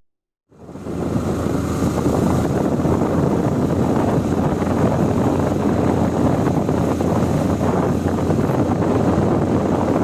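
Steady wind rush over the microphone of a moving motorcycle, starting about half a second in after a brief silence.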